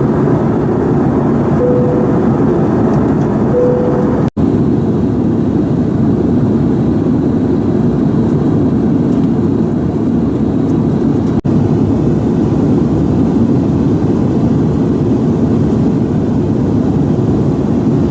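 Steady airliner cabin noise in flight, a dense low rush of engine and airflow heard from a window seat. Two short steady tones sound early on, and the noise drops out for an instant twice.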